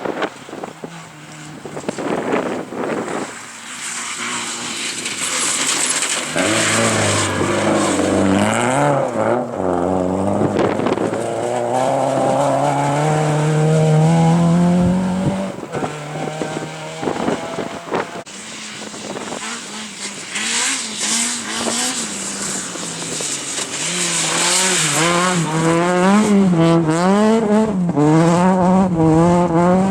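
Rally cars running at speed. One engine revs up through the gears with a rising pitch and cuts off about halfway through. Near the end another car's revs rise and fall quickly, with some tire squeal.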